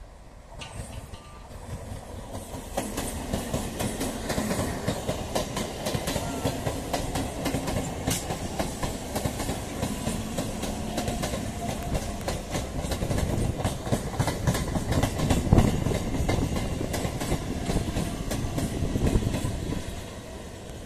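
Electric multiple unit (EMU) local train passing close by, its wheels clattering over the rail joints. The sound builds up over the first couple of seconds and falls away near the end.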